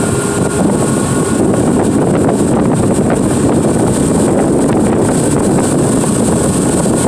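Tour boat's motor running steadily under way, with wind buffeting the microphone.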